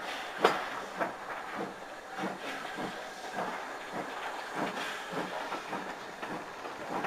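Heritage passenger train running, heard from an open carriage window: a steady rushing noise with regular knocks, nearly two a second. A sharper knock comes about half a second in.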